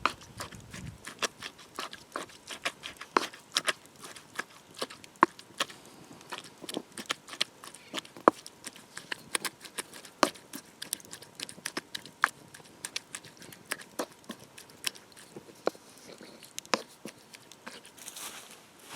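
Wood fire crackling, with irregular sharp cracks and pops several times a second.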